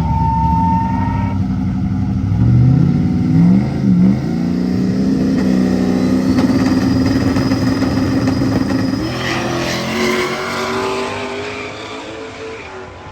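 Drag car engine revved in quick blips, then held at high revs and run off, its sound shifting up and fading into the distance near the end.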